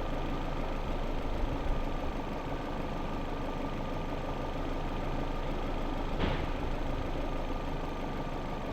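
Car engine idling steadily, with a single sharp click about six seconds in.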